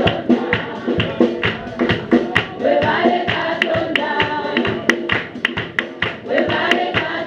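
Congregation singing a worship song together, over a quick, steady beat of sharp percussive hits.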